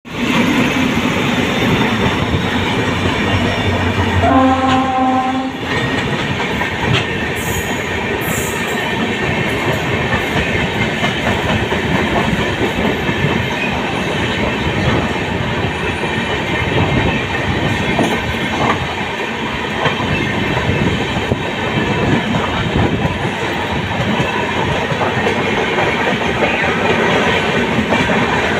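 Two Indian express trains running side by side on parallel tracks, heard from the open door of a moving coach: steady rumble and clickety-clack of wheels over the rail joints. A locomotive horn sounds once for about a second, about four seconds in.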